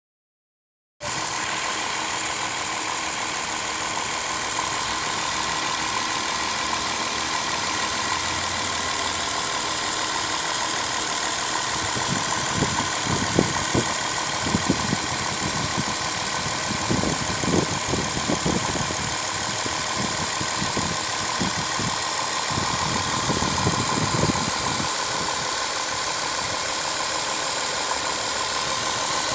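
2005 Dodge Caravan's 3.3-litre V6 engine idling steadily with a knock in it. The engine sound starts about a second in, and irregular low thumps come and go through the middle stretch.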